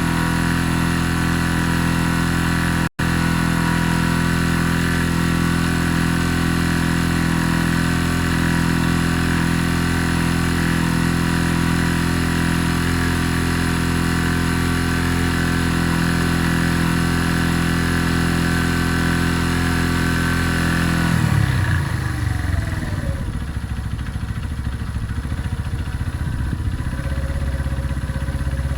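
Benelli Keeway 125 motorcycle engine idling steadily, cut by a momentary dropout about three seconds in. A little past twenty seconds the engine note falls in pitch and changes character.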